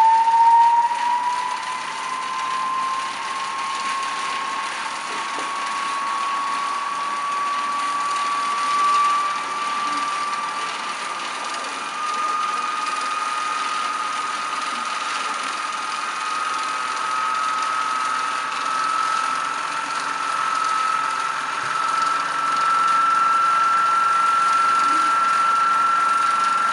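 Small electric motor driving an earthquake-simulation shaker, running with a steady whine that climbs slowly in pitch as its speed is turned up.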